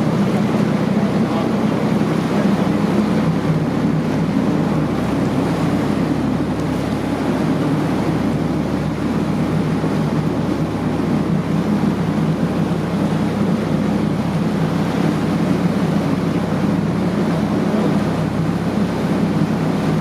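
Motorboat engine running steadily under way, a constant low drone, with water rushing past the hull and wind buffeting the microphone.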